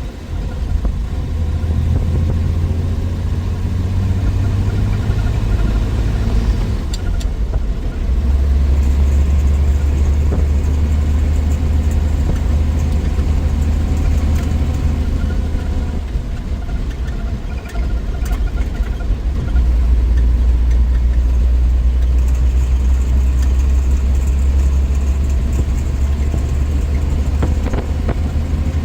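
1963 Willys Wagon's 230 Tornado overhead-cam straight-six running on the road, a steady low drone. It gets louder about 8 seconds in and again about 20 seconds in.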